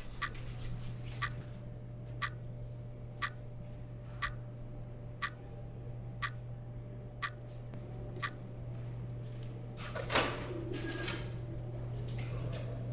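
Clock ticking about once a second over a steady low hum. The ticks stop about eight seconds in, and a brief, louder noisy rush of about a second follows near the end.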